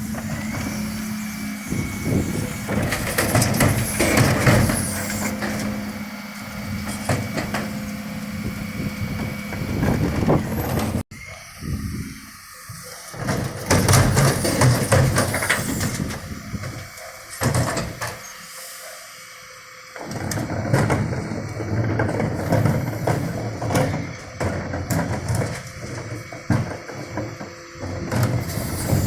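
Dennis Eagle refuse truck working at the bins: the engine runs with a steady hum while the split bin lifters cycle, with repeated knocks and clatter as wheelie bins are lifted and tipped. The sound cuts off abruptly about a third of the way in, then starts again in loud and quieter stretches.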